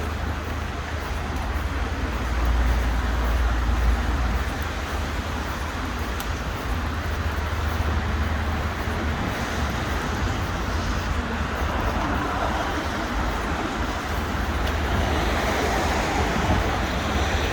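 Steady city street traffic noise, with a low rumble that swells a couple of seconds in.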